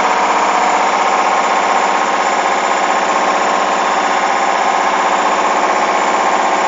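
Hoover washing machine's drum spinning, its motor making a steady, loud whine with a fast fluttering pulse, on a very unbalanced load.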